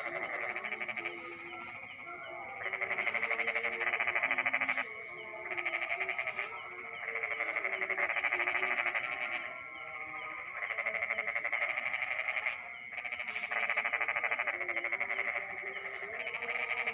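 Night chorus of frogs and insects: fast pulsed, bleat-like trills in bouts of one to two seconds, repeating every few seconds, over an unbroken high insect trill.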